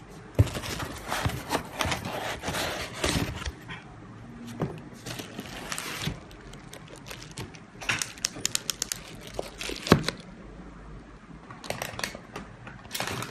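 Packaging being handled during an unboxing: crinkling and rustling with irregular clicks and knocks, a sharp knock about half a second in and another near ten seconds, and a quick run of clicks a little before that.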